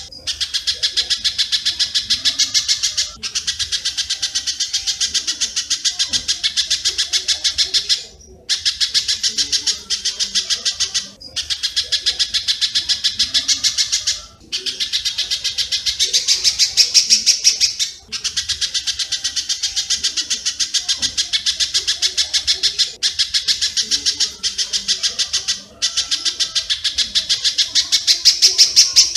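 Bird-song training (masteran) recording of spiderhunter (pijantung) and swiftlet (walet) calls: a rapid, dense chattering of many notes a second, in phrases of about three seconds broken by short pauses.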